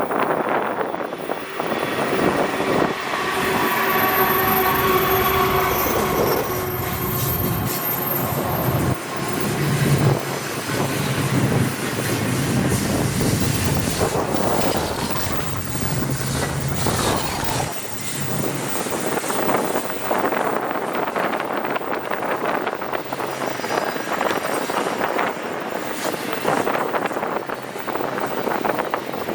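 A diesel-led intermodal freight train passes: Norfolk Southern ES40DC locomotive. Held tones sound from about two to nine seconds in, the locomotive's low engine drone follows, and the last third is the rolling noise of the freight cars.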